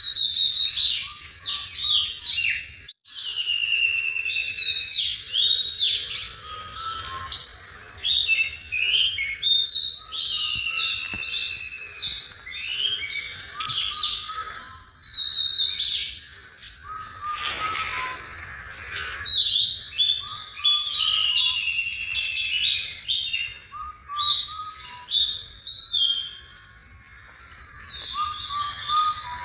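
A songbird singing continuously, a fast stream of chirps and warbled notes sliding up and down in pitch, with a few short pauses.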